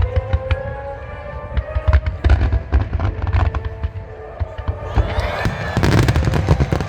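Fireworks finale barrage: a rapid string of shell bursts with low booms, thickening into a dense, continuous crackle of bursts about five seconds in.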